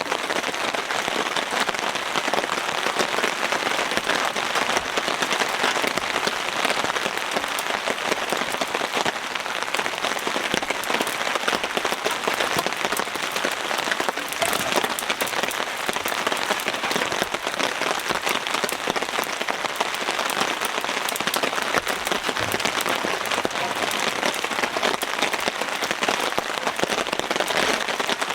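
Heavy rain falling steadily, a dense even patter of countless drops.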